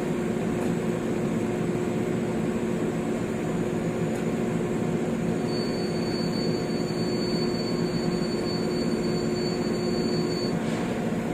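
Steady mechanical hum, with a faint high-pitched whine from about five seconds in until shortly before the end.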